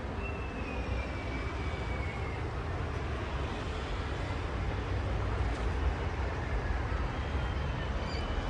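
Steady low rumble of outdoor city ambience, with a few faint thin high tones drifting over it.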